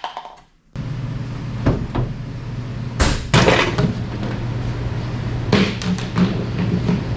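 Steady low hum with scattered clanks and knocks of tools on metal during work on the truck. The hum comes in suddenly about a second in.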